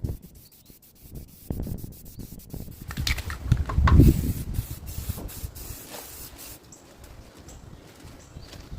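Paint being sprayed onto a steel tractor rim, a hissing spray that comes and goes, with a low rumble that is loudest about four seconds in.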